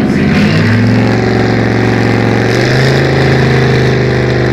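An American car's V8 engine revved and held at steady high revs, its note stepping up about half a second in and rising a little more midway.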